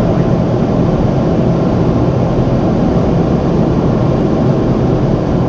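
Steady roar of a Boeing 767-400ER's twin turbofan engines and airflow, heard inside the passenger cabin, with a low hum underneath.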